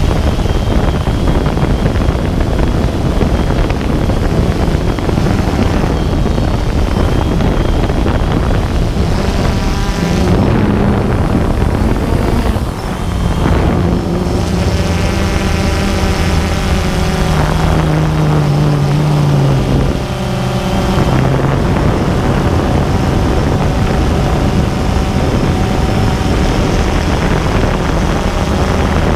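DJI Phantom 2 quadcopter's electric motors and propellers droning, with heavy wind rush on the microphone. In the middle stretch the motor tone shifts up and down in pitch and dips briefly twice.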